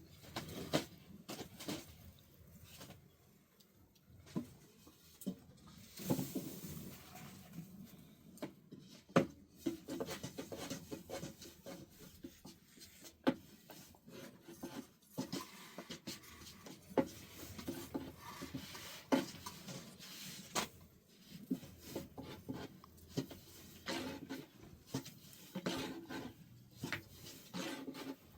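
Irregular clatter and knocks of objects being handled, like dishes or utensils, with rubbing and scraping in between; the loudest knock comes about nine seconds in.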